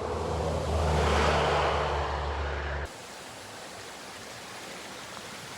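A motor vehicle passing, its engine hum and tyre noise swelling and fading, cut off abruptly a little under three seconds in. It gives way to the steady rushing of a creek.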